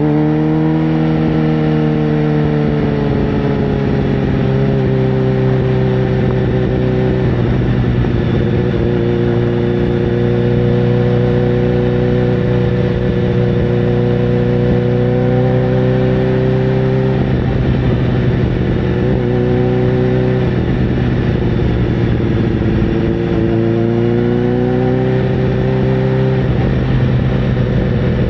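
Sportbike engine running at fairly steady revs, its pitch falling just after the start and climbing again near the end.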